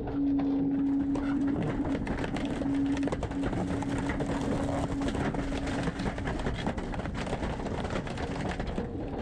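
Garbage truck running with a steady whine over a rough mechanical noise and small clicks; the whine fades out about six seconds in.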